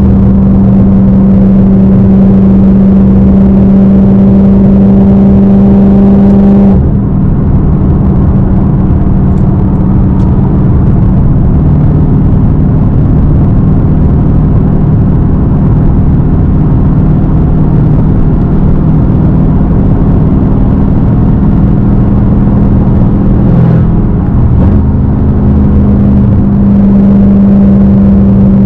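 Straight-piped Dodge Hellcat's supercharged 6.2-litre V8 exhaust droning loudly at steady revs while driving. The engine note steps down suddenly about a quarter of the way through, holds lower, and comes back up near the end.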